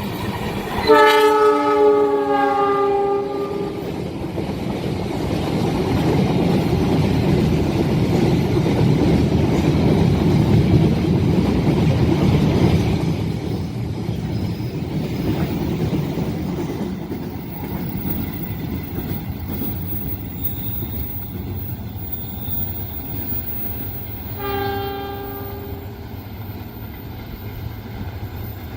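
A train's horn sounds a long chord-like blast about a second in. The train then passes at speed with a heavy rumble of wheels on track that builds and slowly fades, and a second, shorter horn blast sounds near the end.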